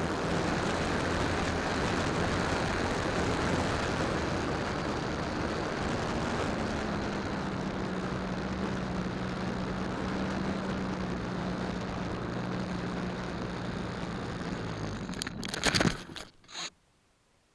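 Electric motor and propeller of an RC P-51 Mustang model airplane in flight, a steady drone with a strong rush of wind over the belly-mounted keychain camera. Near the end come a few sharp knocks and scrapes, and then the sound cuts off.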